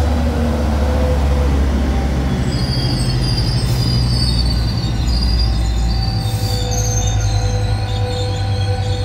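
Metrolink passenger train rolling past, with the steady low rumble of its F125 diesel locomotive. Thin, high wheel squeal sets in about two and a half seconds in and holds as the train moves on along the platform.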